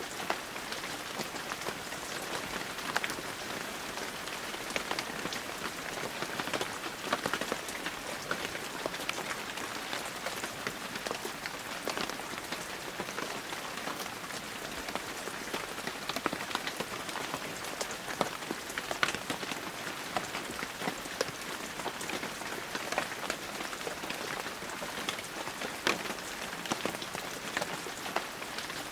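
Heavy rain falling steadily, a constant hiss of rainfall dotted with many close drop patters and taps.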